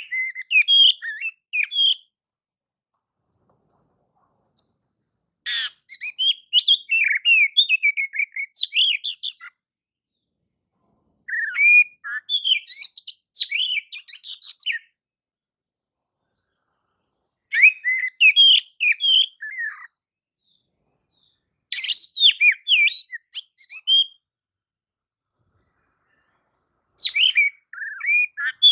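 Oriental magpie-robin (kacer) singing a clear, varied song of quick chirps and whistles, in six phrases of one to four seconds each, with silent gaps of two to three seconds between them.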